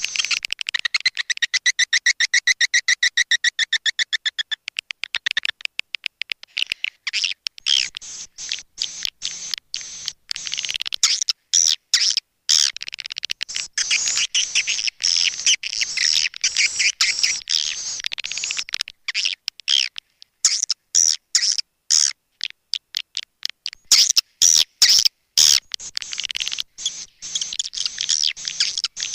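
Swiftlet calls from a lure recording: a fast buzzing trill for the first few seconds, then rapid chattering chirps and clicks in quick bursts. This is the call played to draw swiftlets into a nesting house.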